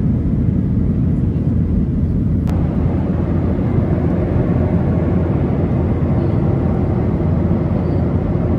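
Steady engine and airflow noise inside a Boeing 737 passenger cabin in flight, heaviest in the low range. A single click comes about two and a half seconds in, after which the hiss becomes a little brighter.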